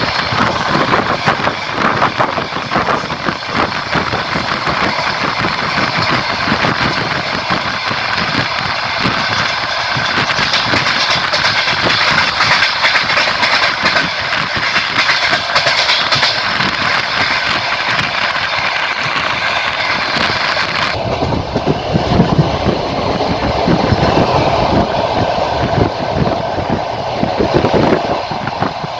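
Passenger train running along the line, wheels clattering over the rails amid rushing noise, heard from a carriage window. About three-quarters of the way through, the sound abruptly turns duller and deeper.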